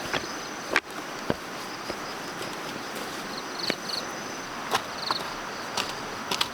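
Insects chirping and buzzing in the background, with short pulsed chirps and a thin steady high tone. A few sharp knocks or taps cut in now and then, the loudest about a second in.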